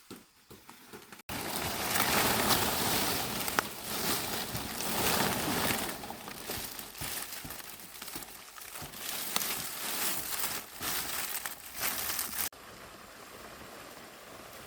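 Leaves rustling and crackling with many sharp snaps as they are handled. The sound starts abruptly about a second in and cuts off near the end, leaving a steady, quieter hiss.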